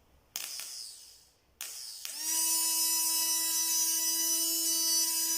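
Two short handling noises, then about two seconds in a freshly rebuilt small brushed electric motor switches on and spins up to a steady high whine on its test run after reassembly.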